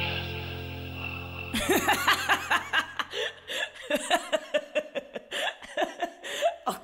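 Background music fading and cutting off about a second and a half in, followed by several men laughing and chuckling.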